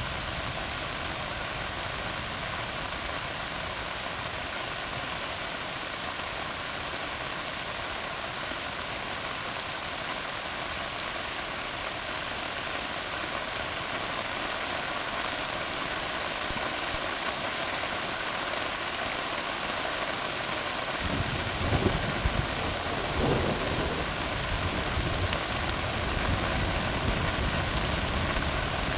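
Steady rain hissing on a tar road, with scattered drops ticking. About two-thirds of the way in, a low rumble sets in and carries on, swelling a couple of times.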